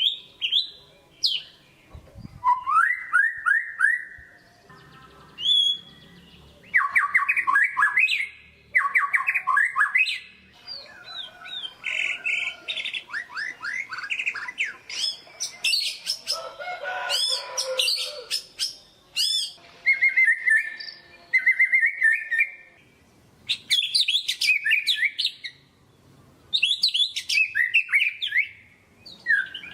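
White-rumped shama singing vigorously: a string of varied phrases of rapid repeated notes, whistled glides and trills, with short pauses between phrases.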